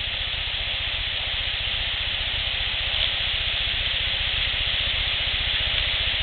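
Steady hiss of an outdoor field recording turned up loud, over a low rumble, with one faint click about three seconds in.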